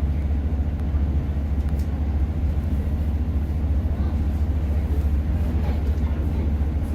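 Steady low rumble of a Class 150 diesel multiple unit running along the line, heard from inside the carriage: the underfloor diesel engine and running gear.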